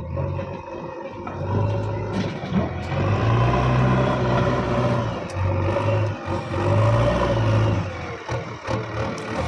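Heavy diesel engine of a backhoe loader or tractor revving up and down under load, swelling and easing several times, with a few short clanks.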